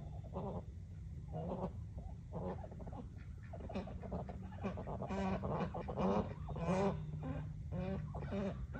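Geese honking over and over in many short calls, busiest and loudest from about five seconds in, over a steady low hum.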